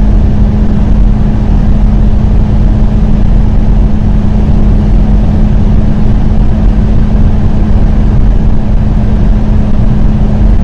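2021 Hyundai Elantra at high speed in an acceleration run: the engine holds one steady, unchanging drone over loud road and wind rumble.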